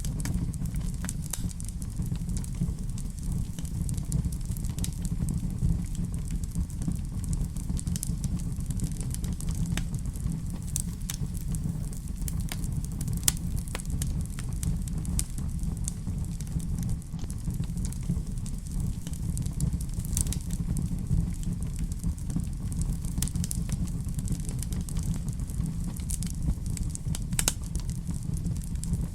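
Wood fire burning in a fireplace: a steady low rumble of flames with sharp crackles and pops every second or so, one louder pop about 13 seconds in.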